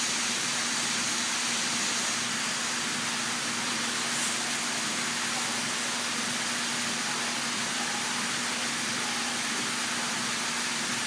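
Steady rushing noise like falling or spraying water, with a constant low hum beneath it.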